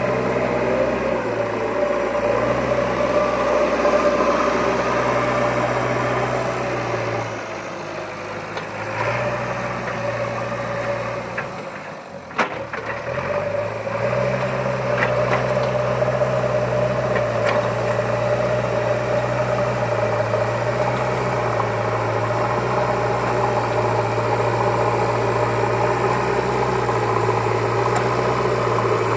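Steady engine-like running drone, changing pitch a few times, with a short break about twelve seconds in.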